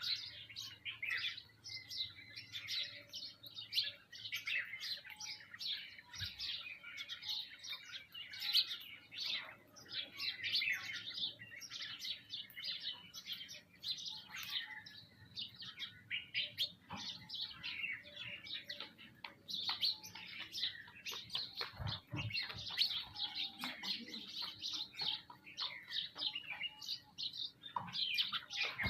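A feeding flock of birds, sparrows among them, chirping busily and without pause, many short overlapping chirps at once. A few soft low knocks come about two-thirds of the way through.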